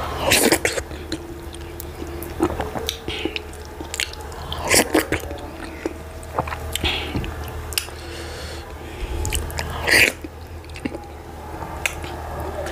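Close-up eating sounds of soup-soaked fufu eaten by hand: wet chewing, mouth clicks and smacks, with a few louder wet bursts about half a second in, near the middle and about ten seconds in. A steady low hum runs underneath.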